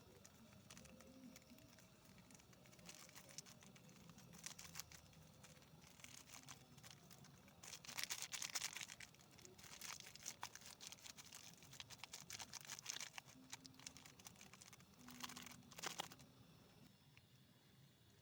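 Faint rustling and crinkling with scattered soft clicks, louder about eight seconds in and again near the end.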